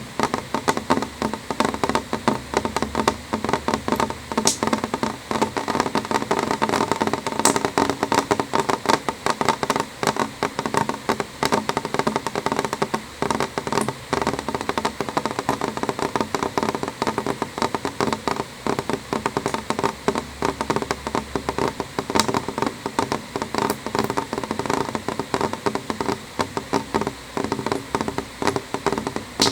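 Rain striking a window pane: a dense, irregular patter of many small taps.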